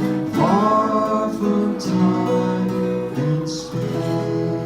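Acoustic guitar strumming the closing chords of a song, with sustained notes ringing.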